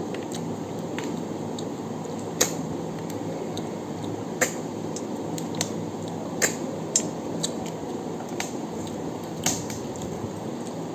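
Eating sounds: sharp clicks and clinks against a dish every second or two, over a steady low background hiss.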